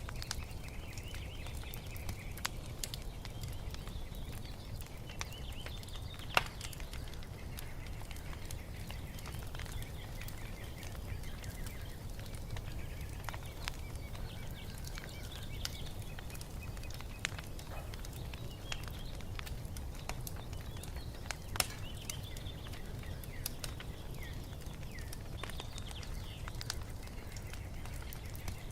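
Wood fire crackling in a fireplace over a low steady rumble, with scattered pops, two of them louder. Small birds chirp faintly throughout.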